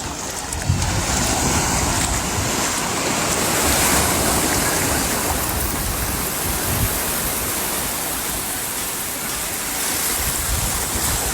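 Ocean surf breaking and washing up a sandy beach. The wash builds over the first few seconds, then slowly eases.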